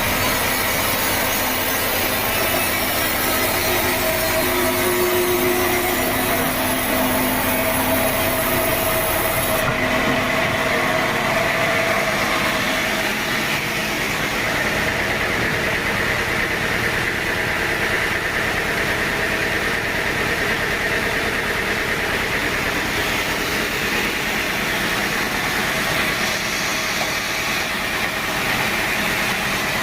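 Sawmill saw cutting through a teak log, a steady sawing noise with a high whine. About ten seconds in, the sharp top hiss drops away.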